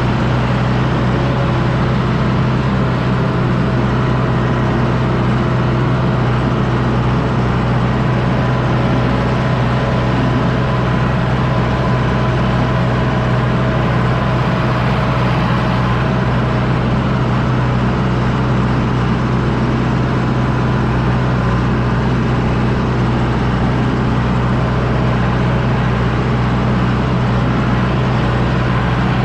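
John Deere 6110D tractor's diesel engine running steadily at constant speed while pulling a disc harrow, a loud even drone with no change in pitch.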